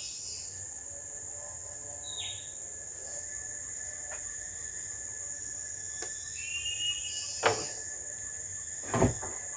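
Tropical forest insects droning steadily and high-pitched, with a short bird chirp and a brief twitter. Near the end come two sharp knocks, the second the louder.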